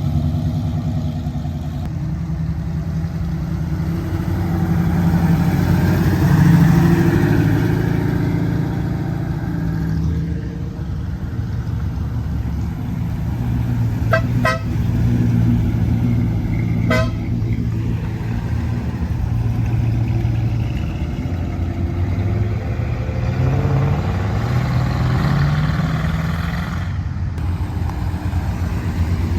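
Car engines running with a deep idle, revving up and back down twice, and a few very short high toots about halfway through.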